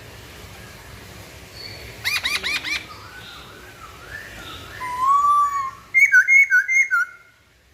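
A poksay Hongkong laughingthrush singing loud clear whistles: a quick run of four upswept notes about two seconds in, then softer warbling, a long slurred whistle, and four loud falling two-part notes before it stops near the end.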